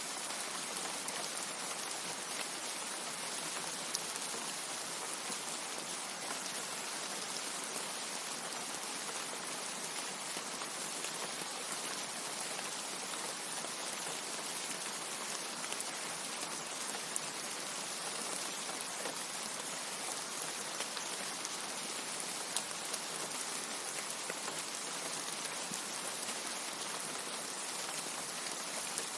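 Steady rain falling, an even hiss of water with scattered sharper drop ticks. There is no thunder.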